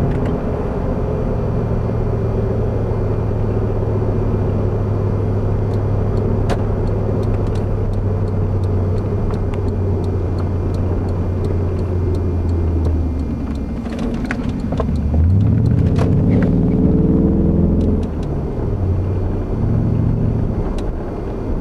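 Lexus LS400's 1UZ-FE V8 through 2.25-inch straight-through exhaust pipes, heard from inside the cabin: a steady low drone while cruising, then the note rises and gets louder under acceleration about two-thirds of the way in, drops suddenly near the end, and climbs again.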